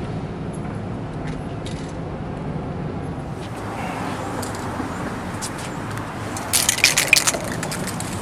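Steady street traffic noise, with a cluster of sharp clicks lasting under a second about six and a half seconds in.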